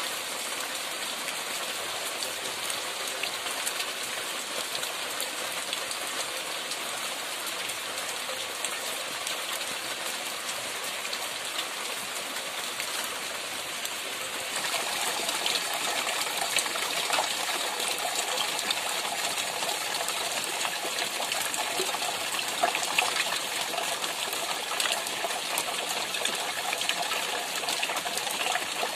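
Steady rain falling, with many small drop ticks; it grows louder and heavier about halfway through.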